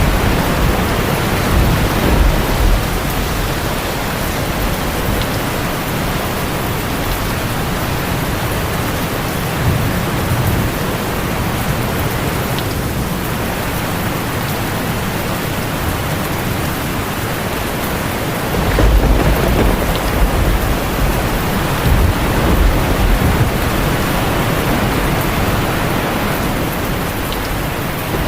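Heavy rain falling steadily on a tin roof, with low thunder rumbling under it, swelling louder about two-thirds of the way through.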